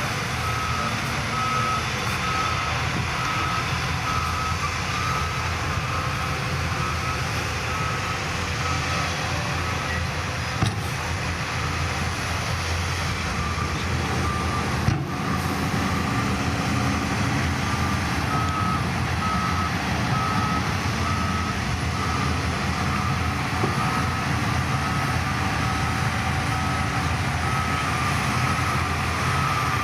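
Reversing alarm on a heavy machine beeping in a regular series over a diesel engine running steadily, with a pause midway and a couple of brief knocks.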